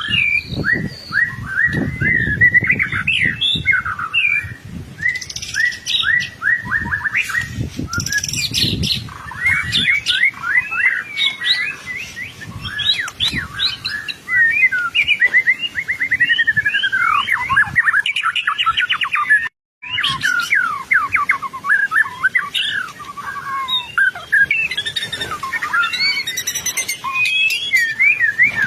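White-rumped shama (murai batu) in full song: a fast, unbroken stream of chirps, trills and sliding whistles. Low thuds sound under the song for the first third, and there is a short complete cut-out about two-thirds of the way through.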